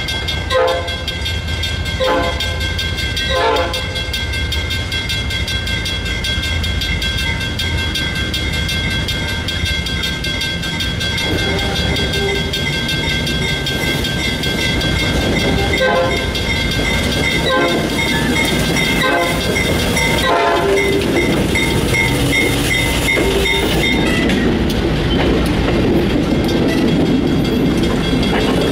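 Railroad grade-crossing bell ringing steadily as a train approaches. The locomotive sounds a series of short whistle blasts, three early on and four more about halfway through. Near the end, passenger cars roll past close by with a rising rumble of wheels on the rails.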